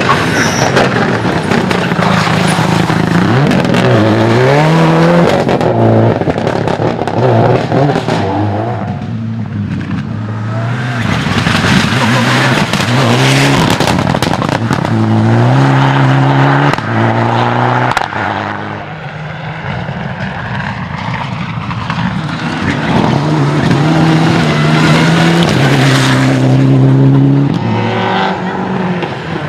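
Rally car engines revving hard through the gears, the pitch climbing and dropping at each gear change. The sound is loud, with two short lulls between runs.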